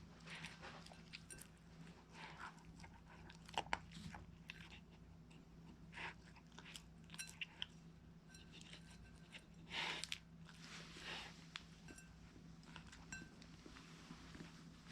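Siberian husky chewing grilled mackerel: faint, irregular bites and crunches, with a louder crunch about ten seconds in.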